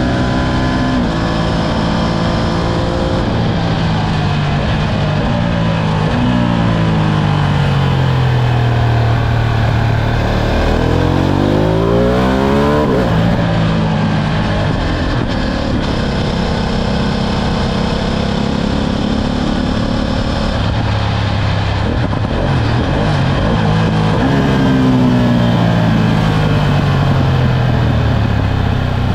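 Ducati Streetfighter V2's 955 cc V-twin engine under way. Its pitch rises in steps early on, falls slowly from about 4 to 10 seconds as the bike slows, climbs steeply around 11 to 13 seconds, holds fairly steady, then falls again over the last few seconds.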